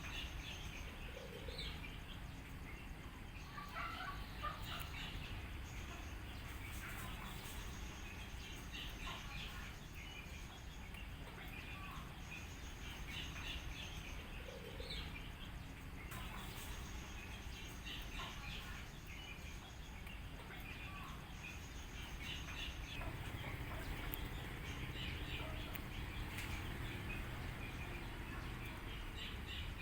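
Wild birds calling in short runs of quick high notes that recur every few seconds, over a steady low background noise.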